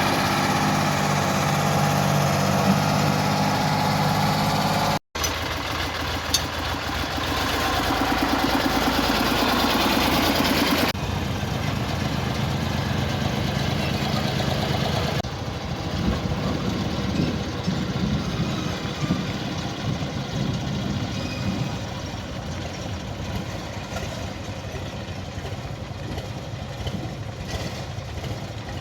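Heavy diesel engines running steadily, the sound changing abruptly about 5, 11 and 15 seconds in, with a momentary dropout at the first change.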